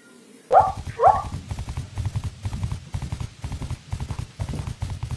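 Zebra call: two short rising squeals, then a fast run of barking, braying yelps.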